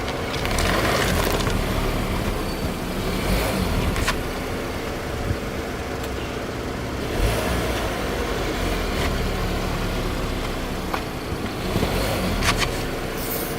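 Car engine running at low speed as the car rolls over objects, with a few sharp crackles as its tyres crush them.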